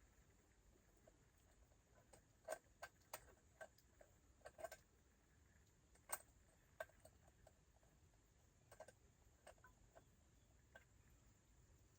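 Faint, irregular small clicks and taps of a tiny screw and chainsaw parts being handled and fitted by hand, a cluster of them in the first half and a few sparser ones later.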